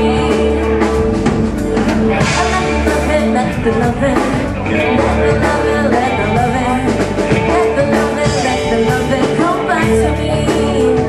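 Live rock band playing between rapped verses, with electric guitar, bass and drum kit over a steady beat.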